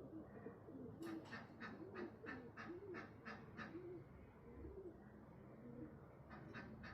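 Pigeons cooing faintly, low rounded coos repeating. Twice a quick run of short, sharp ticks comes in over them, at about three or four a second.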